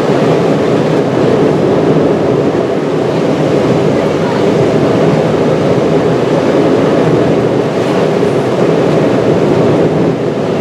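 Steady in-flight cabin noise of a Boeing 777-300ER: a loud, even rush of airflow and engine noise with no breaks.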